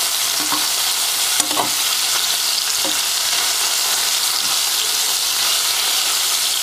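Paneer cubes sizzling steadily in hot oil as they sauté on a high flame, being stirred in a metal pan with a spatula that knocks lightly against the pan a few times.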